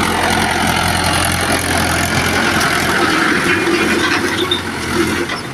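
Mahindra tractor's diesel engine running steadily, dropping in level near the end.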